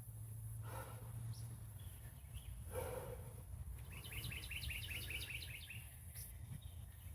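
A small songbird chirping faintly: a few single high chirps, then about four seconds in a quick run of about a dozen chirps lasting under two seconds, over a low steady outdoor hum.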